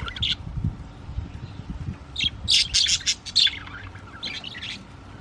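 Budgerigars chirping and chattering, with a quick flurry of sharp high chirps about two seconds in and softer chirps near the end.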